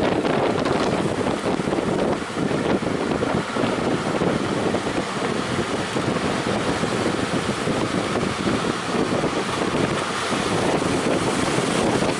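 Strong wind buffeting the microphone over the rush of breaking surf: a loud, steady roar.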